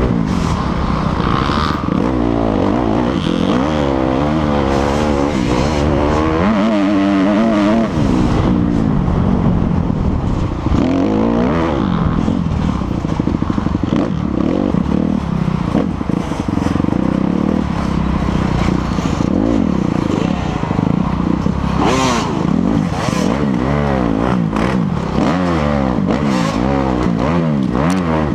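Dirt bike engine being ridden hard, its pitch rising and falling over and over as the throttle opens and closes, with clattering and scraping now and then.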